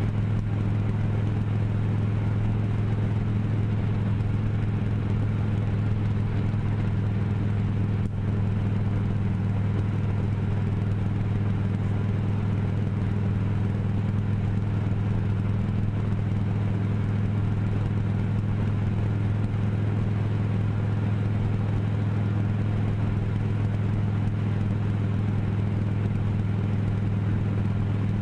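Motor vehicle engine running at a steady speed, a constant low drone that does not change in pitch.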